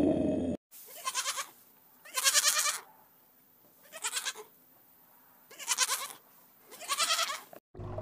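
Goats bleating: five short, quavering bleats about one and a half seconds apart. Before them, a low rumbling growl cuts off suddenly.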